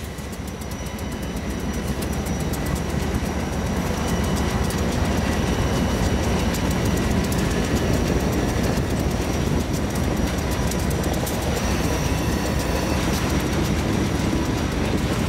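Open-top hopper cars of a freight train rolling past, wheels clicking over the rails with thin steady squeals; the rumble builds over the first few seconds, then holds steady.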